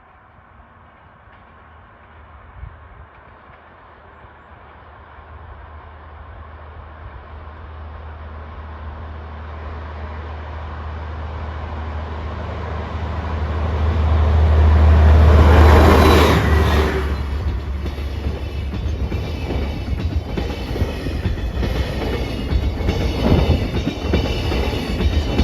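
DF200 diesel-electric locomotive approaching and passing at speed. Its deep engine drone grows steadily louder and is loudest about two-thirds of the way in. After it passes, the cars behind it rumble and clatter over the rail joints.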